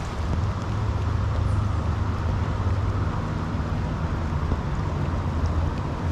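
Steady rush of river water through riffles, with a low, even rumble underneath.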